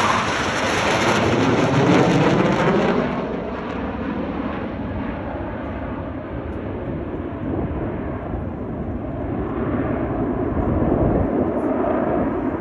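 Blue Angels F/A-18 Super Hornet jets passing overhead. The jet roar is loudest at the start and falls in pitch as it recedes over the first three seconds, leaving a lower rumble that swells again near the end.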